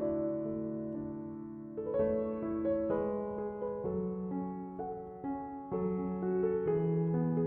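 Slow, gentle piano music: soft sustained chords with a new note or chord about every second.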